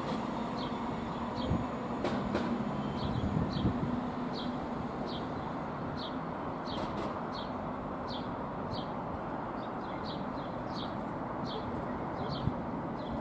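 Thameslink Class 700 Desiro City electric train pulling away into the distance, its low running hum dying away over the first few seconds and leaving a steady rumble. A bird chirps over it again and again, about twice a second.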